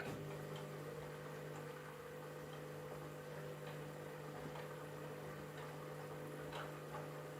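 Candy washing machine running with a steady motor hum, faint light clicks here and there.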